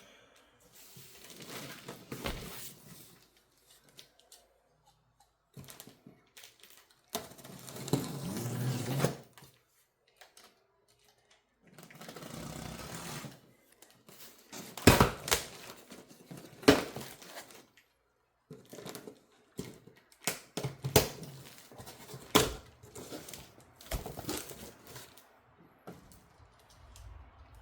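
Unboxing sounds: packaging rustled and torn, with scattered sharp clicks and knocks as boxed parts are handled, in bursts separated by short pauses.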